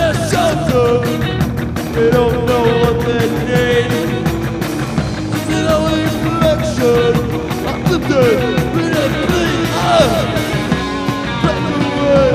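Live rock band playing loudly: full-band music with a steady drum beat and wavering melodic lines.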